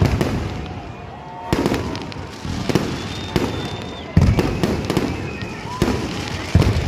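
Fireworks going off in an irregular run of bangs and crackles, several booms much louder than the rest, with a few faint whistling tones between them.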